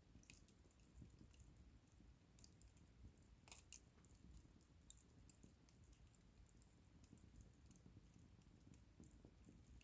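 Wood fire crackling faintly: scattered sharp pops and snaps, a small cluster of louder ones about three and a half seconds in, over a low steady rumble.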